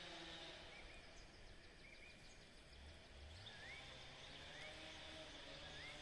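Near silence: faint outdoor ambience with a bird giving short rising chirps about once a second, five in all, over a faint steady low hum.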